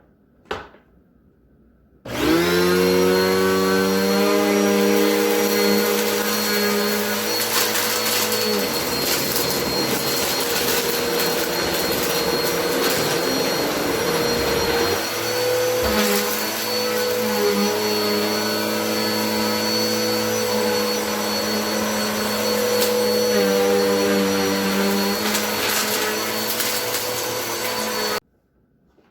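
Vacuum cleaner switched on, its motor winding up to speed and then running steadily while it sucks up dumped household dirt, with scattered small clicks of debris going up. Its hum changes tone for several seconds in the middle. It is switched off near the end, and a short click comes just before it starts.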